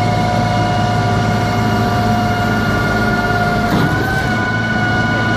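Concrete pump truck running steadily: a constant low engine hum with a high whine of several pitches above it, which steps up slightly in pitch with a short rush of noise about four seconds in.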